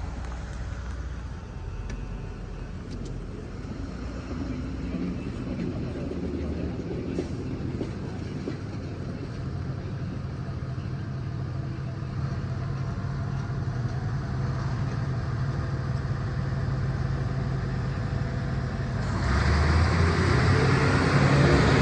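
A train approaching a railway level crossing: a low steady rumble builds slowly, then turns into a louder rush of running noise about nineteen seconds in. No crossing warning bell is ringing, which is the crossing's fault.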